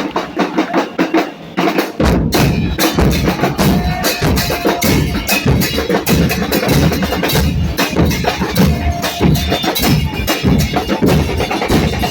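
Murga porteña percussion playing a fast, dense rhythm on bass drums with cymbals mounted on top (bombos con platillo). The deep drum beats drop out for about the first two seconds, then come back in under the cymbal strokes.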